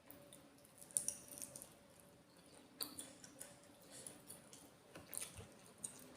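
Close-up sounds of a person eating red curry: wet chewing and mouth sounds, with several sharp clicks, the loudest about a second in and others near three and five seconds.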